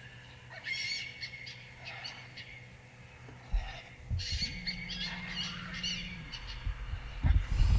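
Birds calling in short bursts of high chirps, three times, with a low rumbling of camera handling from about halfway in that grows loudest near the end as the camera swings away.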